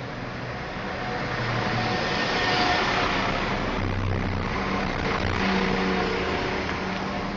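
A West Midlands Railway Class 172 Turbostar diesel multiple unit arriving at the platform, its engine and wheel noise building over the first few seconds and easing off toward the end, with a few faint steady tones running through it.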